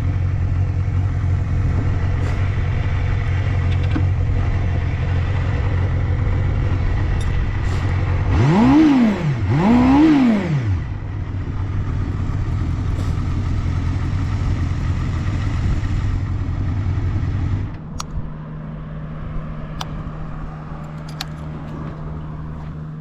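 Honda Jade 250's four-cylinder engine idling steadily and blipped twice in quick succession, pitch rising and falling, then idling on until it cuts out about three-quarters through, leaving a few small clicks. It runs smoothly with no abnormal noise.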